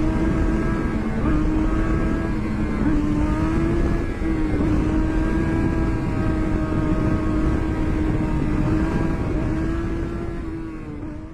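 Motorcycle engine held at high, nearly steady revs, heard over heavy wind rush on the microphone at speed. It fades away near the end.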